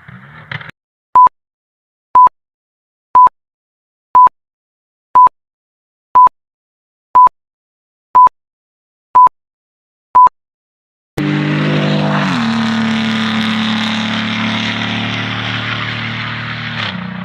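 Ten short electronic beeps of a countdown timer, one a second. About eleven seconds in, a performance car engine comes in loud: its pitch drops, then holds steady for about six seconds before cutting off suddenly.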